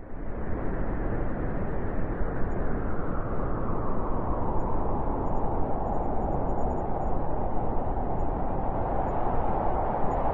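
Blizzard wind blowing hard and steadily: a dense rushing noise that starts abruptly, with a hollow howling tone growing stronger in the second half.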